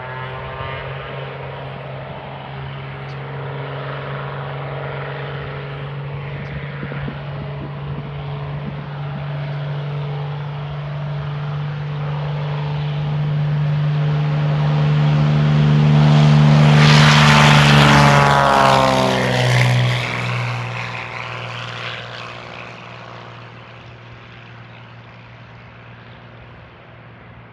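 Beechcraft T-34 Mentor propeller plane taking off: its engine and propeller drone grows steadily louder as it comes closer, is loudest about two-thirds of the way in, then drops in pitch as it passes and fades away.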